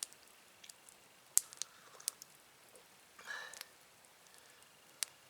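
Campfire crackling: a few sharp, scattered pops, the loudest about a second and a half in and another near the end, with a short soft rustle just after three seconds.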